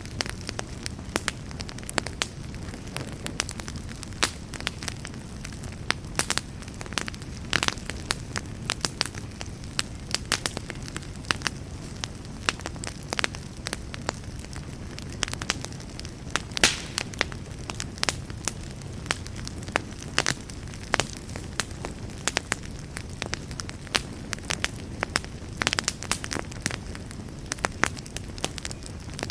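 Campfire burning: a steady low rush of flames with frequent sharp, irregular crackles and pops of burning wood.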